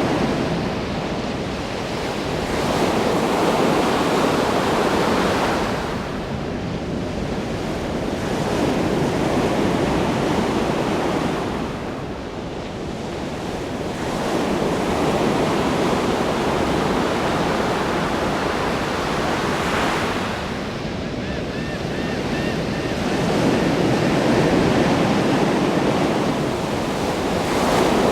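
Ocean waves breaking in a continuous wash of surf, swelling and easing every six seconds or so.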